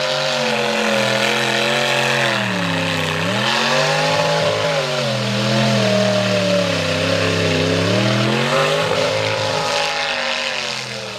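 Mega truck engine revving hard as it works through the mud bog. The pitch rises and falls repeatedly, dropping sharply about three seconds in and again near nine seconds before climbing back.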